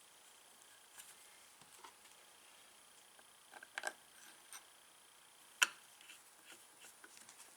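Faint, scattered light clicks and taps of metal parts being handled as a golf cart starter-generator's long through-bolts are fitted; the sharpest click comes a little past halfway.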